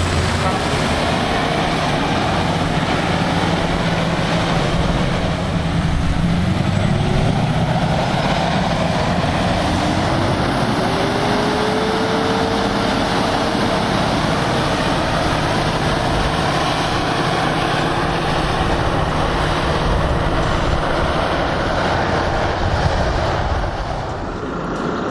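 Heavy truck's diesel engine running hard under load with loud road noise, a whine rising in pitch about ten seconds in and then holding steady.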